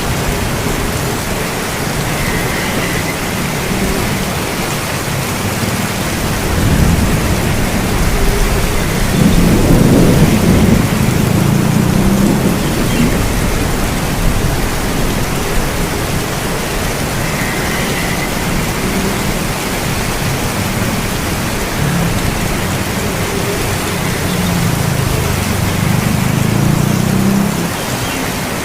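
Steady heavy rain with low rolling thunder that swells about a third of the way in and again near the end.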